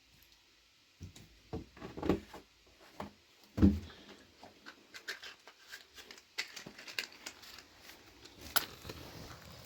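Irregular handling noises: rustling and crinkling with knocks, the loudest a dull thump about three and a half seconds in and a sharp click near the end.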